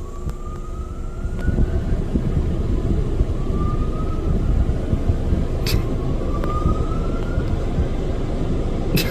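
Coleman Hanna Water Wizard in-bay automatic car wash running a cycle on a car: a heavy, steady rush of machinery and spray, with a rising whine that sweeps up three times and a couple of sharp clicks.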